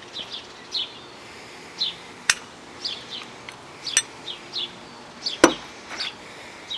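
Small birds chirping repeatedly in short falling notes, with three sharp clicks about two, four and five and a half seconds in; the last click is the loudest.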